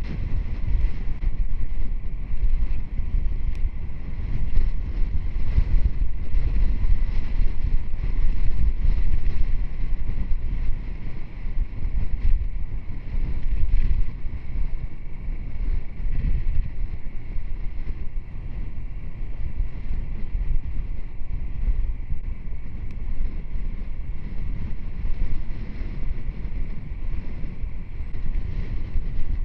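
Wind buffeting the microphone on a moving motorcycle: a steady, loud low rumble that swells and eases.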